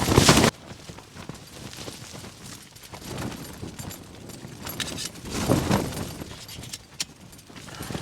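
Tent fabric shaking in gusts of gale-force wind, with scattered light clicks and rustles of gear being handled. A louder rush of noise cuts off suddenly about half a second in.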